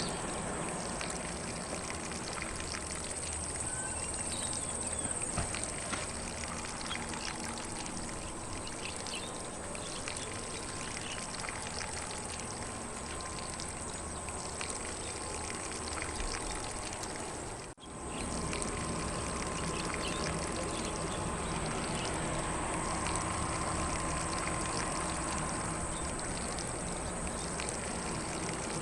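Lawn sprinkler spraying water over grass, a steady even hiss of spray, with faint bird chirps in the background. The sound drops out for a split second about eighteen seconds in.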